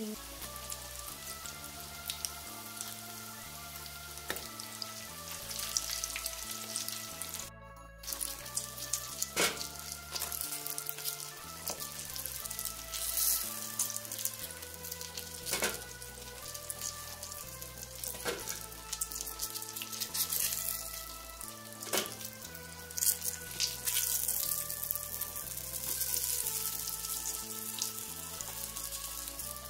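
Breaded eggplant slices sizzling in hot oil in a frying pan, with several sharp clicks as a fork works the slices.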